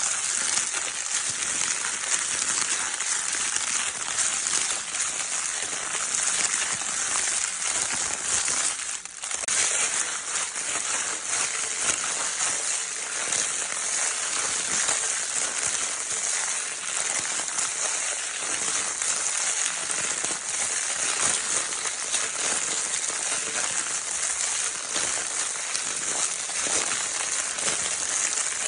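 A baby's crinkle paper toy being crinkled without a break, a dense crackly rustle, with a brief lull about nine seconds in.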